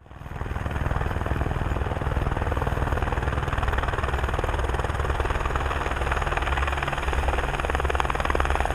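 Helicopter running steadily: a fast, even rotor chop over a low engine drone, fading in at the start.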